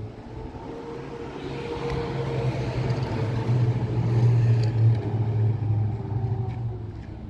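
A motor vehicle's engine running steadily, growing louder to a peak about four to five seconds in, then easing off.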